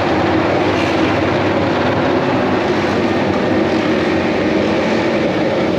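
Several 1000 cc four-cylinder MotoGP racing motorcycles running at once, a steady dense engine noise.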